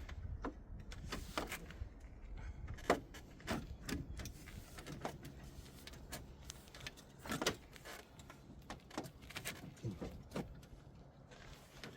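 Scattered clicks, taps and light clinks of small parts and fasteners being handled while working on an SUV, at irregular intervals, the loudest knock about seven seconds in.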